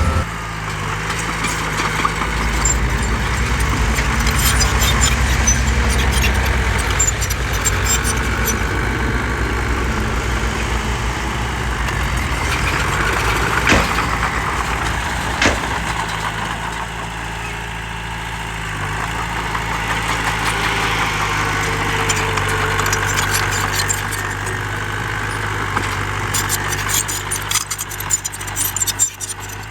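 Heavy diesel engine of earthmoving machinery running steadily, with scattered sharp clanks and rattles throughout and a denser burst of them near the end.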